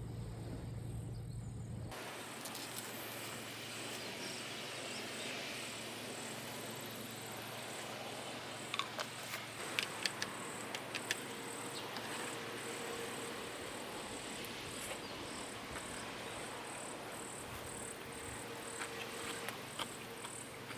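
Steady rain falling, with a high insect chirp repeating at an even pace and a few sharp taps around the middle. A low hum cuts off about two seconds in.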